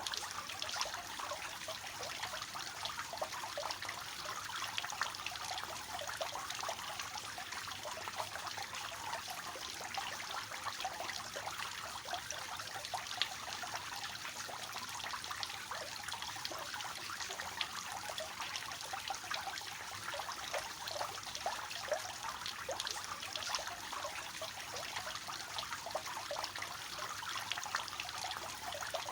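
Water from a three-tiered cascade fountain falling and splashing steadily into its basins: a continuous trickling, splashing patter with no change.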